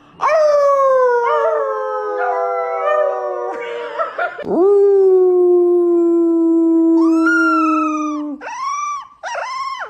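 Dog howling on cue, as if trying to talk: two long drawn-out howls, the first slowly falling in pitch, the second held steady, then a few short rising-and-falling yowls near the end.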